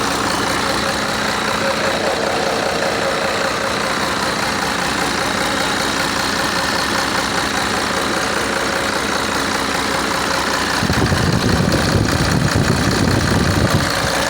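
Tata 1613 truck's diesel engine idling steadily. About eleven seconds in, a louder, rougher low sound joins in and runs to the end.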